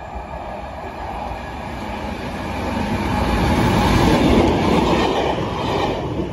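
Class 73 locomotive and its test coaches passing through, the rumble of wheels on rail growing louder to a peak as the locomotive goes by about four seconds in, then the coaches rolling past.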